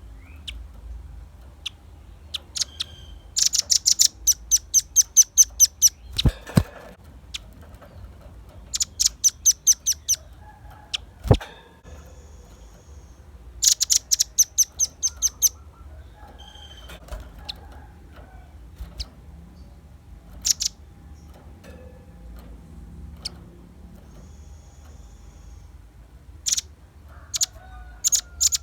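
Velvet-fronted nuthatch singing: three bursts of rapid, sharp high chips, about six a second, with scattered single chip calls in between. Two sharp knocks are heard, one about six seconds in and one about eleven seconds in.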